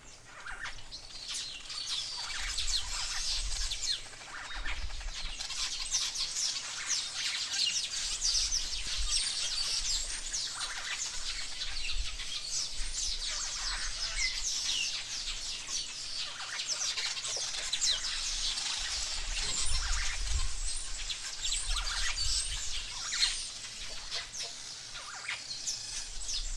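Many small birds chirping at once, a dense chatter of short, high calls and quick whistles that runs without a break, with low rumbles on the microphone now and then.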